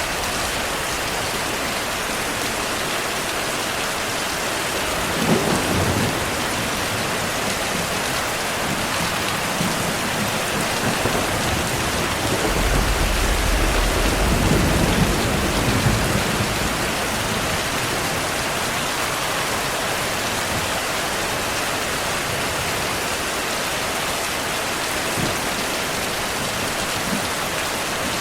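Heavy steady rain with rolling thunder: a short rumble about five seconds in and a longer, deeper one from about twelve to sixteen seconds.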